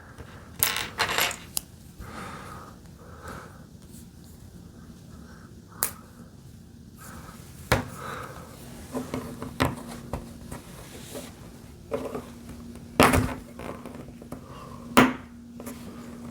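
Plastic LEGO pieces clicking and clattering as they are handled and pressed together, in scattered sharp clicks.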